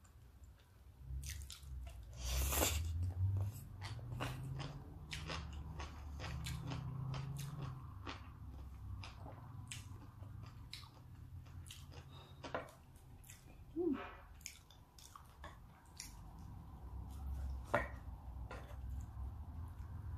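Close-miked chewing and biting of salmon sashimi and its raw garnish: a run of wet mouth clicks and small crunches throughout.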